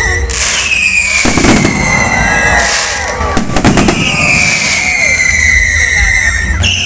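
Fireworks going off: two rapid crackling volleys of bangs about two seconds apart. Under them runs a high whistling tone that slowly falls in pitch and jumps back up near the end, with voices faintly behind.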